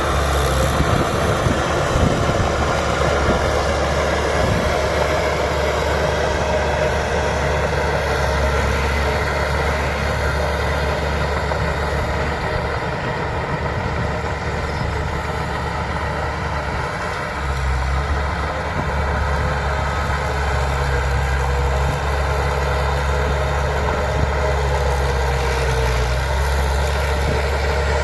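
Bulldozer's diesel engine running steadily with a heavy low drone, which eases off in the middle and comes back stronger about two-thirds of the way through.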